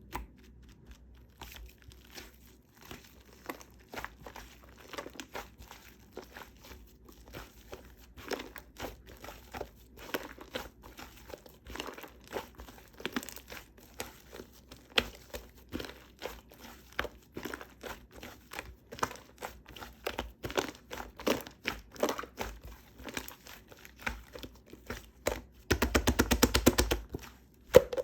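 Shaving foam being squished and pressed by hand, with irregular wet crackles and pops. Near the end comes a louder stretch of about a second and a half of fast, dense crackling.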